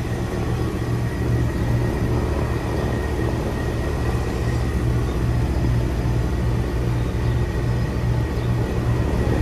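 Residential heat pump outdoor unit running in cooling mode: a steady low compressor hum that throbs at an even pace, with condenser fan noise and a faint steady high whine over it.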